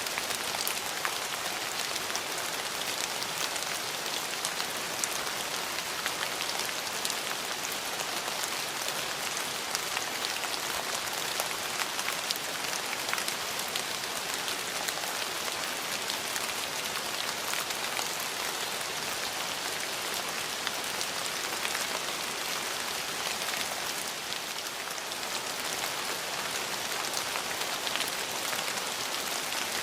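Steady rain falling, a dense hiss of drops with many fine individual drop ticks, briefly a little softer about 24 seconds in.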